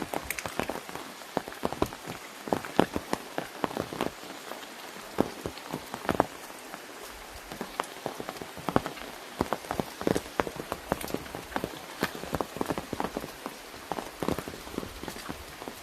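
Rain falling on an umbrella: a steady hiss with dense, irregular sharp taps of single drops striking the canopy.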